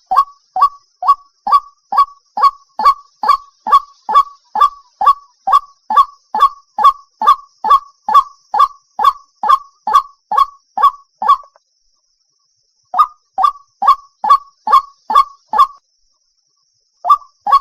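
White-breasted waterhen (ruak-ruak) calls: a loud, monotonous run of short honking 'kwak' notes, about two a second, breaking off twice for a second or so before starting again. This is the kind of call recording played to lure waterhens out of cover.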